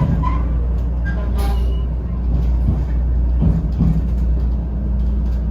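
Shinkansen train running on the Hakata-Minami Line: a loud, steady low rumble with a faint hum above it.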